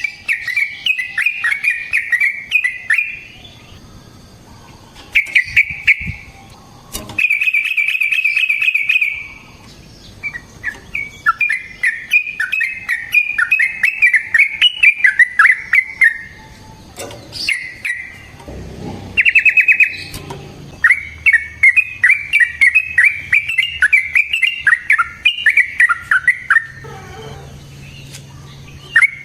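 Yellow-vented bulbul (trucukan) singing long, rolling chattering phrases of quick bubbly notes, broken by short pauses, with a fast even trill about seven seconds in and another shorter one near twenty seconds.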